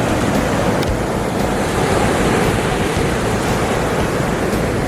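Pacific Ocean surf: waves breaking and washing in a steady, loud rush.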